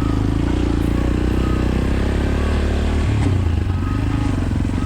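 Fuego Tekken 3.0 250 enduro motorcycle's 250 cc engine running steadily at low revs under way, its note briefly changing about three seconds in.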